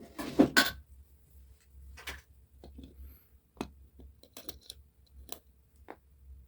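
Small metal parts of an old wall clock's movement being handled, giving a quick clatter of clicks at the start and then scattered, irregular single clicks.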